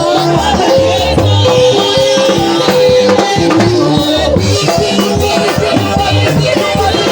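Live church band playing upbeat African gospel music with a steady drum beat and a shaker, with a melody of held notes over it.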